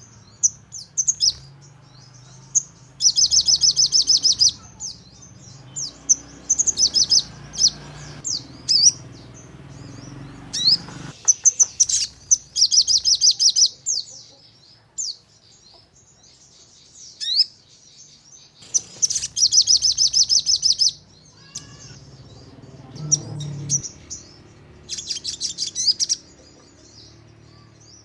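Sogon songbird singing: several bursts of rapid, high trills, each a second or two long, of the fast 'nembak' kind that bird keepers prize, with scattered sharp chirps and short whistles between them.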